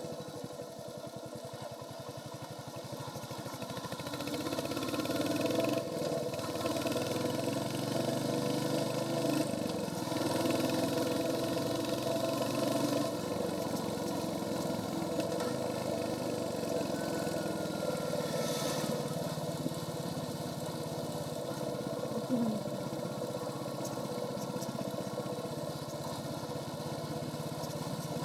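Royal Enfield Hunter 350's single-cylinder engine running through its stock exhaust on the move, picking up speed over the first few seconds and then pulling steadily. A brief sharp knock about 22 seconds in.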